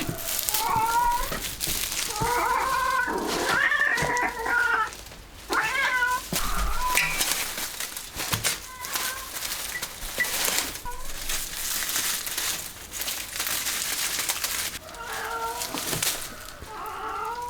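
A cat meowing several times, with a long gap in the middle, among clicks and rustling.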